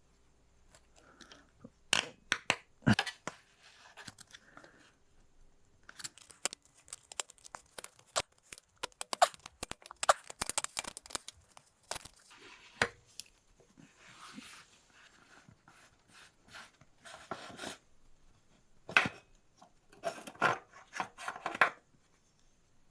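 Irregular clicks, knocks and scraping from parts and tools being handled in bicycle repair work, coming in bursts with quieter gaps between.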